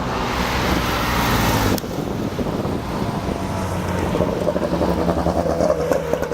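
Lancia rally cars driving by with their engines running, mixed with road and wind noise. About two seconds in the sound changes abruptly to a quieter, steadier engine hum.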